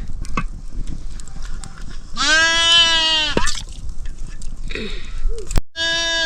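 Bleating livestock: two long, loud bleats, the first about two seconds in and lasting about a second, the second starting near the end, with a sharp click just before it.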